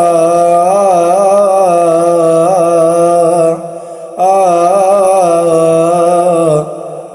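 A male cantor sings a long melisma of a Coptic hymn in Arabic, holding a vowel with small wavering ornaments. He breaks for a breath about halfway, then sings a second held phrase that ends shortly before the close.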